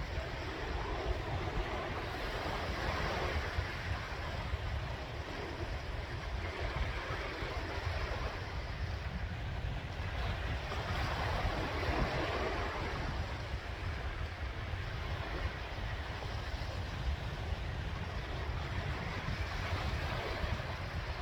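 Sea waves washing onto the shore, swelling three times as each wave comes in, over a steady low rumble.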